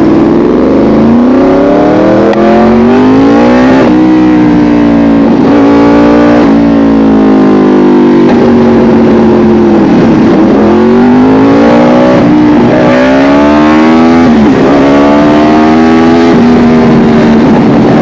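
Yamaha R1 inline-four sportbike engine accelerating hard through the gears, loud. Its pitch climbs and drops sharply at each upshift, and it eases off for a while around ten seconds in and again toward the end.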